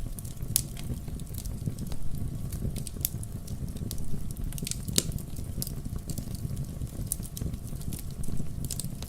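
Wood fire burning in a fireplace: a steady low rumble of flames with scattered sharp crackles and pops from the burning logs, a few of them louder, about half a second and five seconds in.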